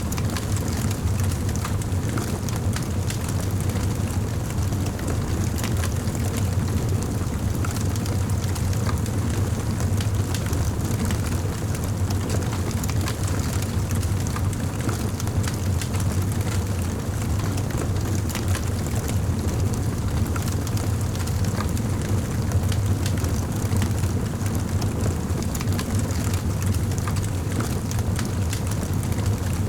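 Wood fire in a fireplace crackling, with many small pops and snaps over a steady low rumble.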